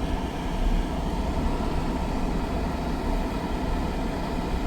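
Steady low rumble of a truck driving slowly, its engine and road noise heard from inside the cab.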